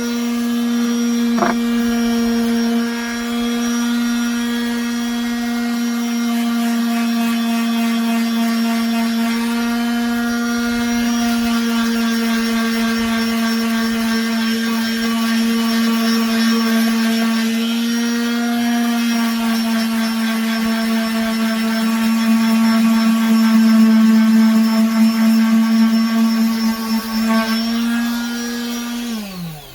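Electric sander motor running steadily on the wooden table, one constant hum with overtones, then switched off near the end and winding down in pitch.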